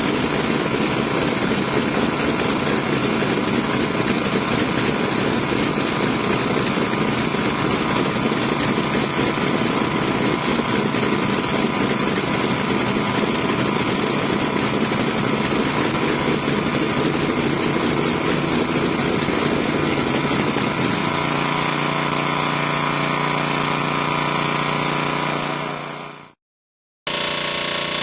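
A large engine running steadily. It fades out near the end, and after a brief gap a different, duller machine sound starts.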